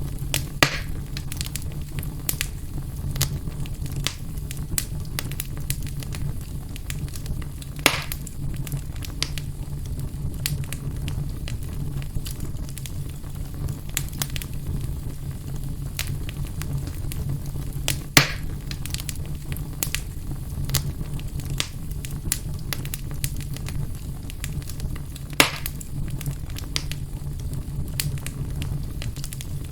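Fire burning in a fireplace: a steady low rumble with constant small crackles, and four louder pops spread across the stretch.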